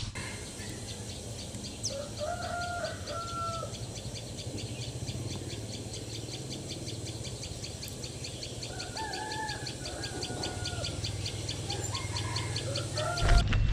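A bird calling in three groups of drawn-out, wavering calls, over a steady, rapid, evenly repeating insect chirping.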